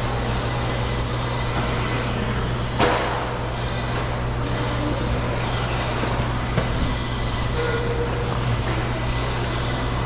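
Electric RC stadium trucks racing on a dirt track: motor whines rising and falling over a steady low hum, with a sharp knock about three seconds in and a smaller one past the middle.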